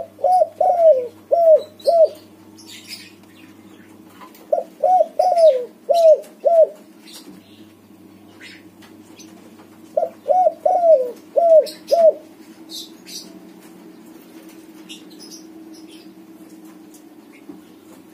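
White spotted dove cooing its song: three phrases of about five short coos each, spaced roughly five seconds apart, with the start of another at the very end. Faint chirps of small birds and a steady low hum sit underneath.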